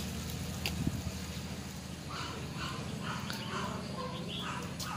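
A bird calling over and over in short calls, about three a second, starting about two seconds in, over a steady low hum. There are a couple of light metal clicks near the start.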